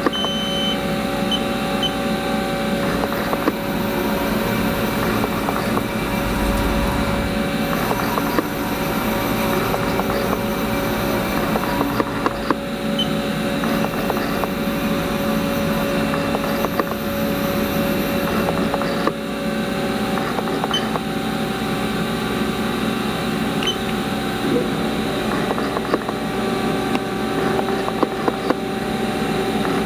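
Haas ST-20 CNC lathe running under power: a steady machine hum with several held tones and occasional small clicks, and its pitch and low rumble shift about twelve and nineteen seconds in.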